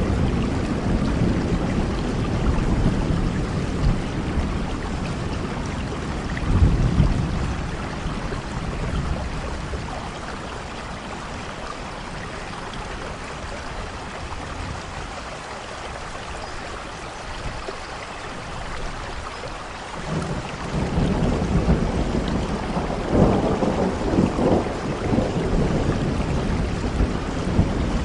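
Steady heavy rain with rolling thunder. The rumble fades through the middle, then builds again about twenty seconds in and rolls on in waves to the end.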